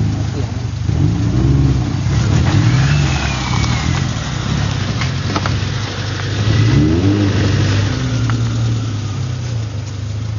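Off-road 4x4's engine revving up and down under load as the vehicle crawls over a rock, with a few short knocks.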